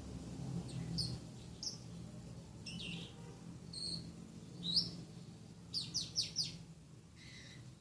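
Lovebird chirping and singing in short, sharp, separated notes, mimicking long-tailed shrike (cendet) song phrases learned from a master recording, with a quick run of chirps near the end.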